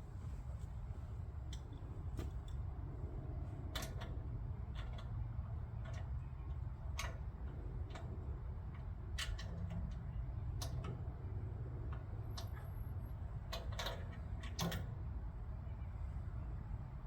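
Scattered, irregular light clicks and knocks, about a dozen, over a steady low rumble.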